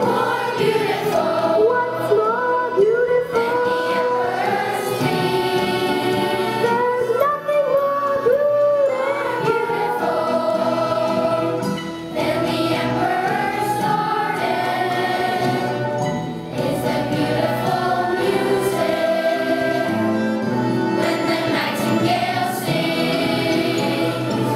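A group of children singing a song together as a choir, with musical accompaniment.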